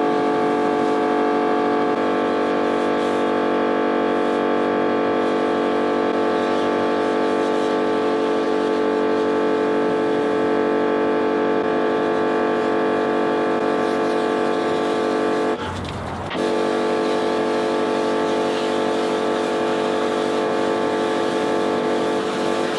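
Pressure washer running steadily during the rinse, a constant motor-and-pump drone with a brief interruption about two-thirds of the way through.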